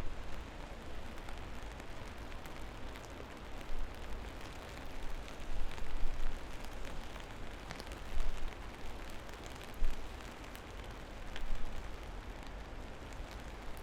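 Steady rain falling, with individual drops ticking among the even hiss. Low rumbles swell up and die away several times.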